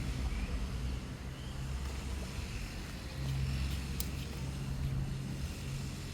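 Lawn mower engine running steadily with a constant low hum.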